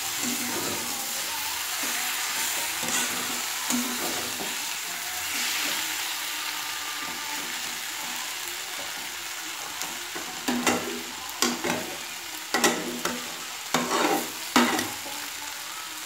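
Prawns, onion and tomato frying in a metal kadai while a metal spatula stirs them: a steady sizzle, with a run of sharp knocks and scrapes of the spatula against the pan from about ten seconds in.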